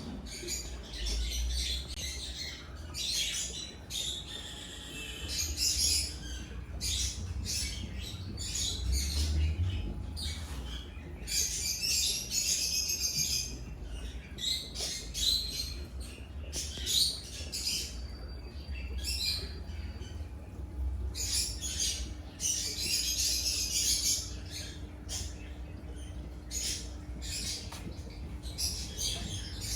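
Small birds chirping and twittering in quick, repeated bursts throughout, over a low steady rumble.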